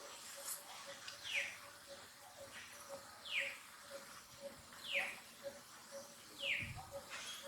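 An animal giving short, high calls that fall in pitch, five times at an even pace about every second and a half, over a faint, steady series of low pips about twice a second.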